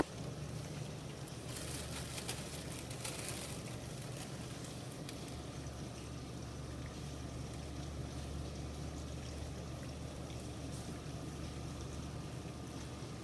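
Heavy rain falling steadily onto flooded ground, an even hiss, with a short spell of crackling about two seconds in.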